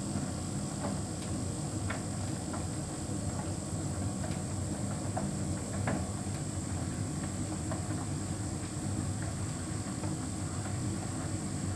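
Hotpoint heat pump tumble dryer running: a steady low hum with a faint steady high whine above it, and scattered light clicks throughout.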